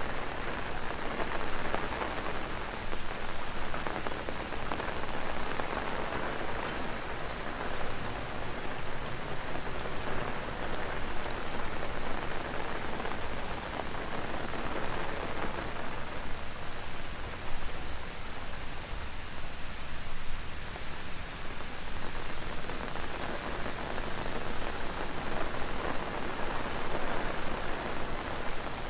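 Heavy rain falling on an umbrella and the ground, an even steady hiss, with a high-pitched cicada chorus droning on top.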